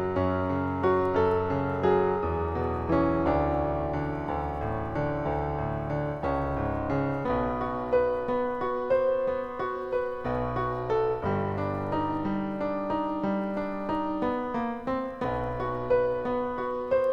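Piano playing a melodic instrumental passage: single struck notes that ring and fade, over low bass notes that change every second or two.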